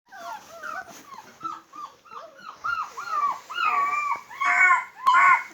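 Puppies whimpering and squealing: a rapid string of short high cries, several at once, growing louder toward the end.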